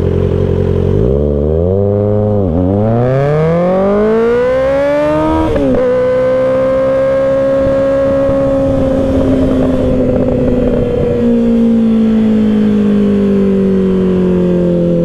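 Kawasaki Ninja ZX-6R 636 inline-four with an aftermarket M4 exhaust, launched hard from idle. The revs climb quickly with a brief dip, then climb steeply to a gear change about six seconds in. After that the engine holds a steady cruise and eases off slowly toward the end, with wind noise underneath.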